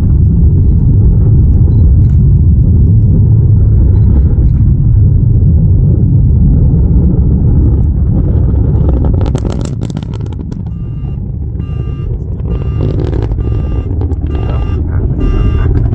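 Deep, steady rumble of the Atlas V rocket climbing away, its RD-180 main engine and two solid rocket boosters firing; it eases off about eight seconds in. In the second half, repeated electronic beeping tones come in over the fading rumble.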